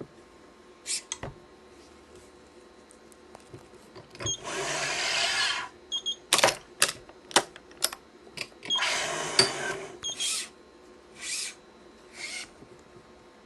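Nylon badminton cross string being drawn through the woven main strings, two long zipping swishes of about a second and a half each. Between them comes a quick run of sharp clicks, typical of the stringing machine's clamps and tension head being worked, and a few shorter swishes of string near the end.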